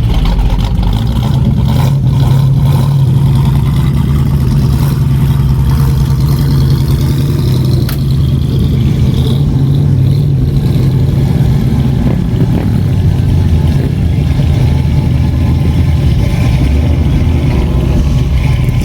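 The flathead V8 (Ford 8BA) of a 1950 Ford F1 pickup running steadily, a constant engine drone with no change in speed.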